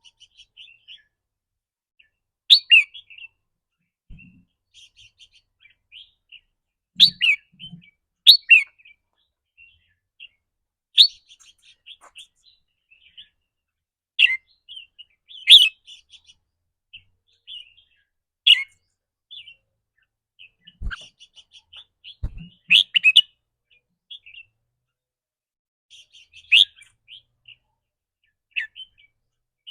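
Red-whiskered bulbul giving sharp, short 'rik' calls every one to four seconds, with quieter twittering between them.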